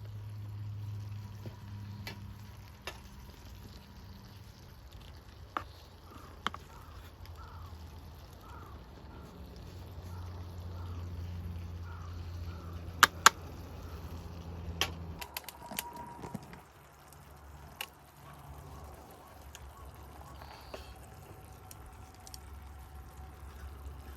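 Crackling with scattered sharp pops, typical of a small wood fire burning in a solo fire pit, over a low steady hum.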